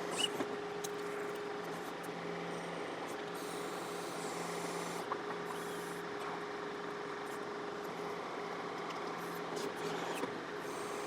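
John Deere 4052R compact tractor's diesel engine running steadily while it powers the 485A backhoe's hydraulics during digging, with a constant whine. There are a few faint knocks and brief patches of hiss as the bucket works.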